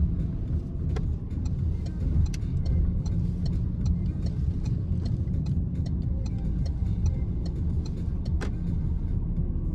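Inside the cabin of a Citroen C-Elysee with the 1.2 EB2 PureTech three-cylinder engine, cruising at a steady speed: a steady low rumble of engine and road noise. Scattered light clicks and ticks run over it.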